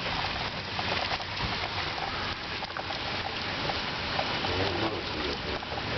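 Steady rain falling, an even hiss dotted with many small ticks of drops.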